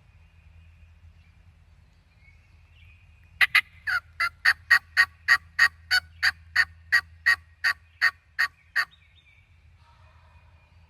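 A long series of about seventeen turkey yelps, evenly spaced at about three a second, lasting some five seconds before stopping.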